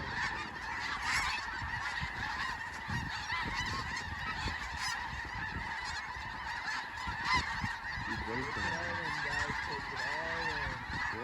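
A huge flock of snow geese calling all at once: a dense, continuous din of overlapping high-pitched honks from birds circling low over the decoy spread.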